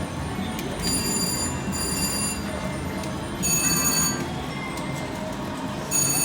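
Electronic slot machine chimes: four short bursts of bright, bell-like ringing tones over the steady din of a casino floor.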